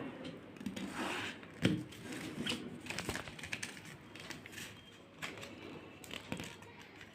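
A sheet of paper rustling and crinkling as it is folded and creased by hand, in irregular short bursts with small crackles.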